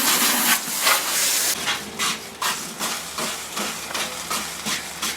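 Fire extinguisher discharging at a fire that will not go out: a loud continuous hiss that cuts off about one and a half seconds in, then short squirts of hissing several times a second.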